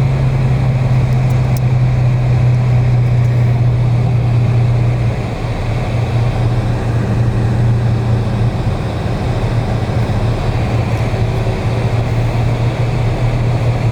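Widebody Dodge Scat Pack's 6.4-litre Hemi V8 with a loud aftermarket exhaust, droning steadily while driving. The drone drops slightly in pitch and level about five seconds in, then holds.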